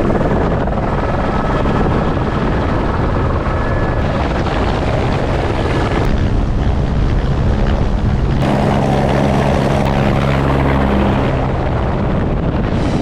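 Loud engine running steadily, its tone changing abruptly a couple of times.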